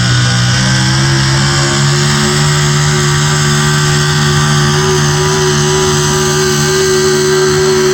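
Pulling truck's engine running loud at high, steady revs, its pitch climbing slightly in the first second and then holding.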